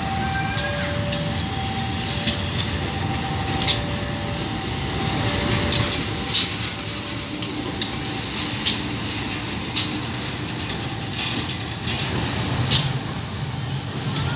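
A train passing with a steady rumble and irregular sharp clacks. Over it, a two-tone warning signal alternates about every half second, typical of a railway level crossing alarm, and fades after about six seconds.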